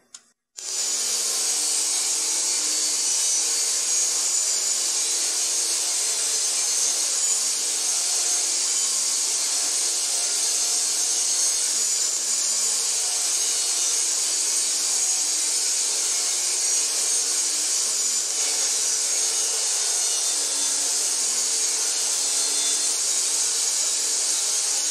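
Portable table saw running steadily with a high motor whine while ripping a plywood board to width along the fence. The sound starts abruptly about half a second in.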